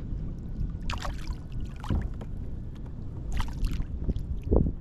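Water splashing in several short bursts alongside a kayak, over a steady low rumble.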